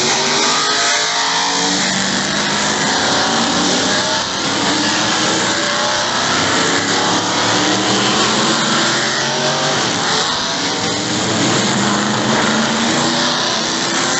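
Several NASCAR Truck Series race trucks' V8 engines running loudly around the track, their engine notes rising and falling and overlapping as they pass.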